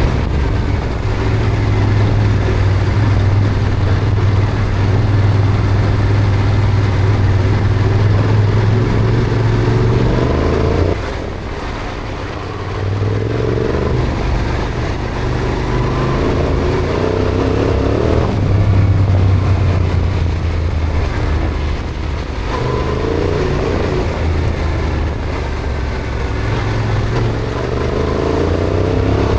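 Yamaha Ténéré adventure motorcycle running on the road, with a steady low engine hum. The throttle eases off about a third of the way in, then the engine rises in pitch as it pulls away again, twice.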